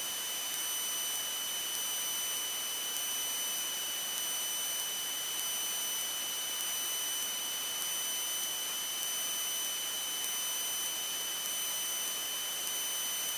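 Steady hiss on the aircraft intercom audio feed, with a constant high-pitched electrical whine held at one pitch throughout.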